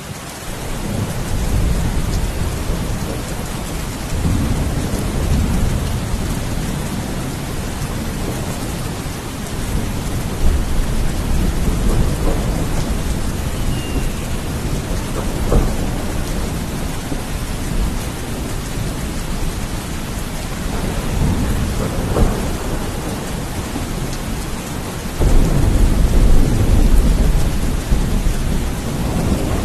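Steady rain with thunder rumbling repeatedly in long low rolls; the loudest roll comes in suddenly about 25 seconds in.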